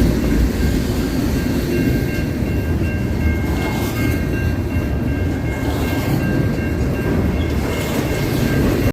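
Freight train rolling past, a steady heavy rumble of wheels on rail with faint thin high tones drifting in and out over it.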